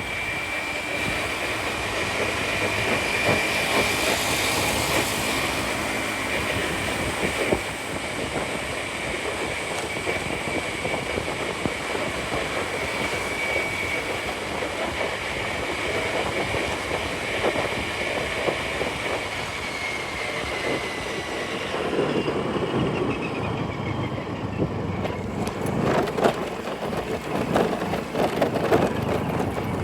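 Riding noise from an automatic scooter in traffic: a steady rush of road and wind noise with a thin high whine that slides down and fades about twenty seconds in. After that come a rougher low rumble and scattered knocks.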